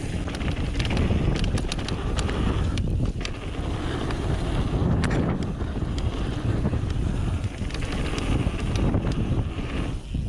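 Trek Remedy 8 mountain bike rolling fast down a dirt trail: tyre noise with frequent sharp clicks and rattles, under heavy wind buffeting on a GoPro Hero7's microphone.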